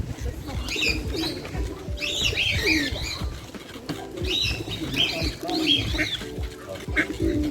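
Songbirds chirping and singing in quick, repeated short phrases, with pigeons cooing low underneath.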